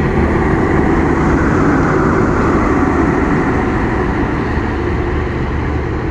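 Passenger train running by, a loud steady rumble of its wheels on the rails.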